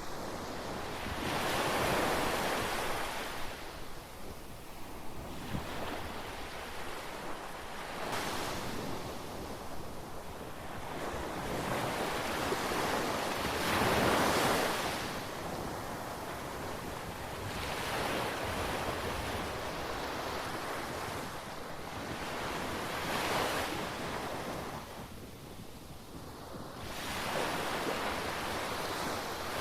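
Mediterranean waves breaking and washing up the shore, a surge every few seconds, with wind on the microphone.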